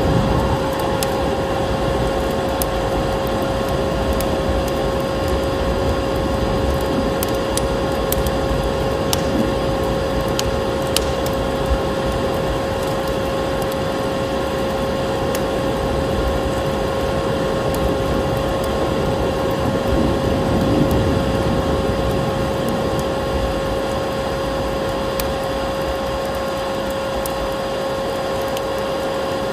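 Electric vacuum cleaner running with a steady motor hum over a rushing air noise. Scattered crackles and pops of a wood fire sound over it, most of them in the first half.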